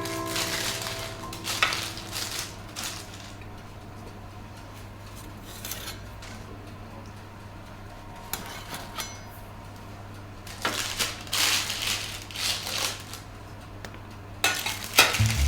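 Dishes and utensils clinking and clattering in two spells, one at the start and another about ten seconds in, over a low steady hum.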